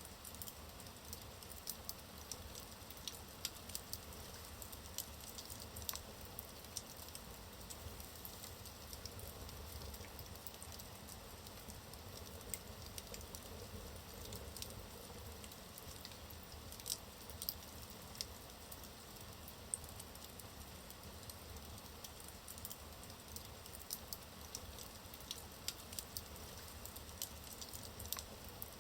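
Logs burning in a fireplace: a soft low rush of flame with frequent small crackles and a few sharper pops scattered throughout.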